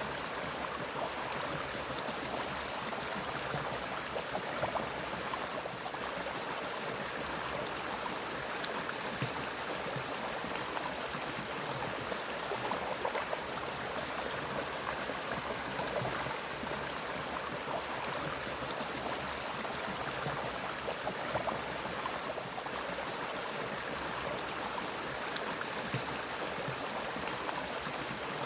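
Mountain stream flowing steadily, an even rushing babble of water, with a constant high-pitched whine held above it.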